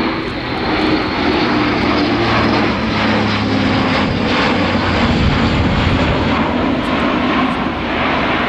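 Airbus A400M's four turboprop engines running at high power: a loud, steady propeller drone with low tones that shift slightly in pitch.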